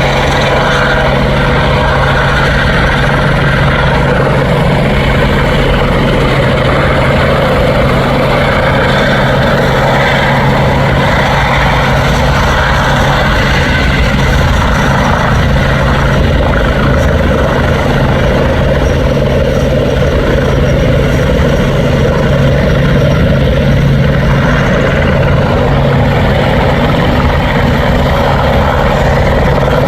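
Helicopter running steadily: a loud, even drone with a constant low hum that does not change throughout.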